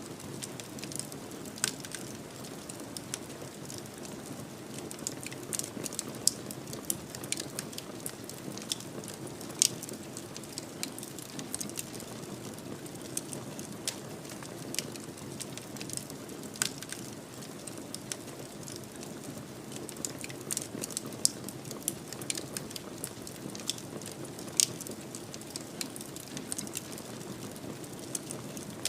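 Wood fire crackling in a fireplace: irregular sharp pops and snaps, a few louder than the rest, over a steady low rush of burning.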